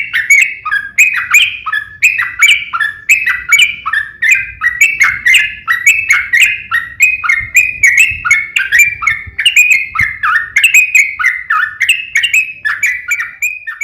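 Yellow-vented bulbul (trucukan) song: a continuous, loud run of bubbly chirping notes, about three or four a second, many dropping in pitch, with no pause.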